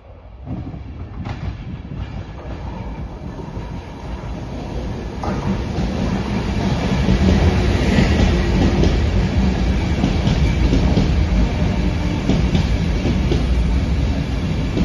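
Passenger train running through a station at speed: its noise builds as it approaches, then holds loud and steady, wheels on rail with scattered clicks.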